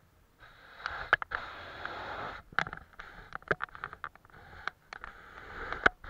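Close-up sounds of watercolour painting: a brush sweeping over paper in a soft hiss for about two seconds, with sharp taps and clicks of the brush and tools around it.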